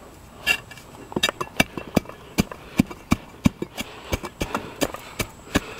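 A quick series of sharp knocks or taps, about three a second, starting about a second in.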